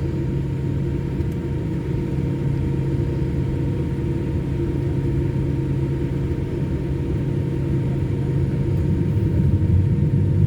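Cabin noise inside a Boeing 787 Dreamliner taxiing on the ground: a steady low rumble from the idling engines with a constant hum, growing slightly louder near the end.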